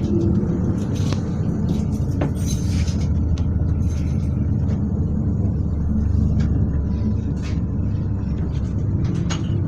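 Class 221 Voyager diesel train running, heard from inside the carriage: a steady low rumble from the underfloor diesel engine and the running gear, with scattered light clicks and rattles.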